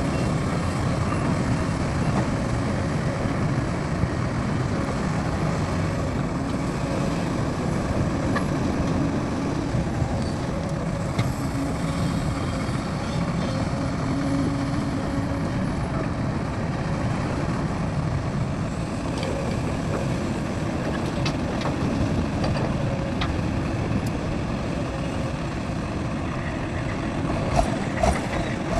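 Heavy earthmoving machinery's diesel engine running steadily, with a few sharp clicks or knocks near the end.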